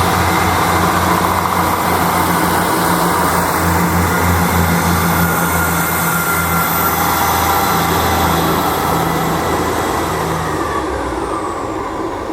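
A diesel train's engine running loud and steady with a low, throbbing hum and a high whine. Near the end the hum drops out, the whine falls in pitch and the sound fades.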